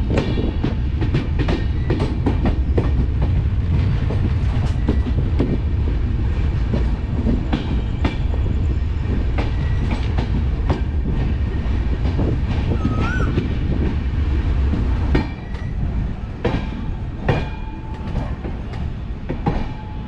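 Passenger express train running on the rails: a steady heavy rumble with repeated clicks and knocks of wheels over rail joints. About 15 seconds in the rumble drops away sharply and the clatter becomes sparser.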